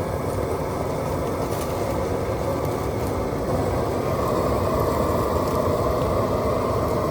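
Open flames roaring steadily as dry brush burns, with a few faint crackles, growing slightly louder about three and a half seconds in.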